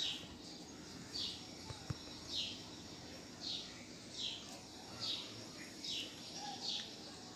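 A bird in the background chirping over and over, one short high note a little more than once a second. A single sharp click comes about two seconds in.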